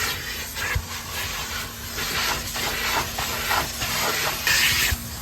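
High-pressure spray wand at a self-serve car wash blasting water, a hiss that comes and goes in surges, strongest a little before the end.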